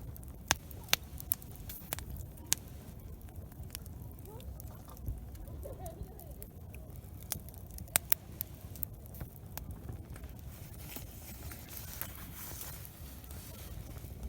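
Campfire crackling, with sharp pops coming at irregular intervals over a low rumble. A soft hiss swells briefly near the end.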